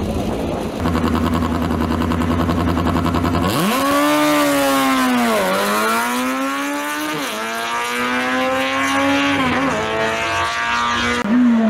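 Race engine idling steadily, then a Simca rally car accelerating hard away up a tarmac course. It shifts up through the gears, the engine note climbing and dropping back at each change, three times.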